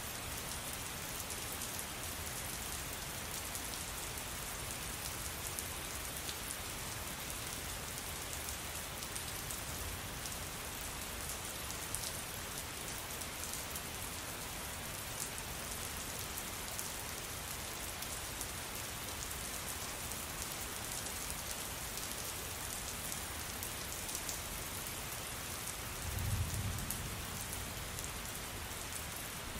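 Steady heavy rain falling on a surface, with many fine individual drop ticks. Near the end a short, low rumble of distant thunder.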